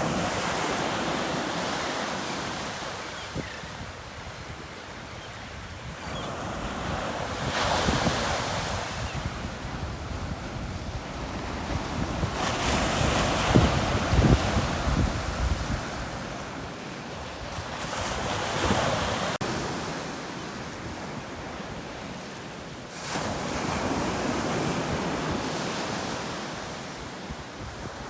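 Gulf of Mexico surf: waves breaking and washing up the beach, swelling and falling about every five seconds, the loudest around the middle, with wind buffeting the microphone.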